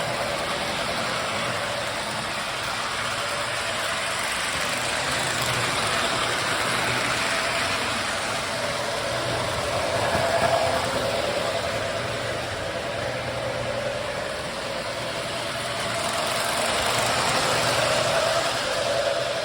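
Lionel O-gauge F-unit toy trains running around the layout's track loops: a steady electric motor whir and wheel rumble on the metal rails that swells as a train passes close and fades as it moves away, several times.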